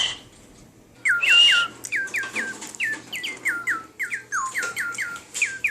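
A breathy whistle about a second in, then a toy bird that repeats whistles chirps back a quick run of short, falling chirps, about three to four a second.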